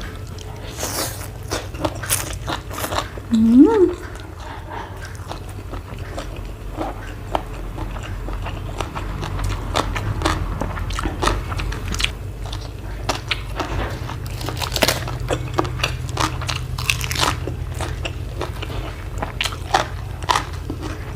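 Close-miked chewing and biting of crunchy food, in a long irregular string of sharp crunches.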